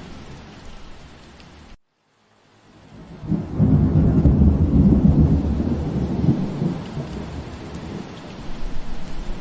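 Steady rain that cuts out abruptly to silence for about half a second, then a deep rumble of thunder swells in, rolls for about three seconds and eases back into the sound of rain.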